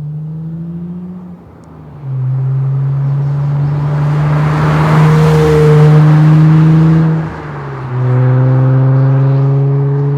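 Nissan Z's 3.0-litre twin-turbo V6 through an MBRP 3-inch cat-back exhaust, accelerating under load. The engine note climbs slowly and drops sharply twice, about a second and a half in and again near three-quarters of the way through, as with upshifts. It is loudest around the middle, where a rushing noise swells and fades.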